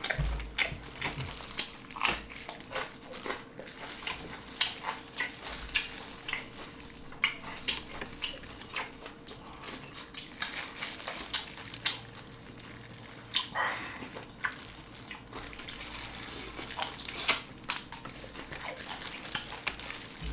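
Close-miked eating sounds of soy-sauce-marinated shrimp: wet chewing and lip-smacking with many short sharp clicks and crackles of shrimp shell, at an uneven rhythm.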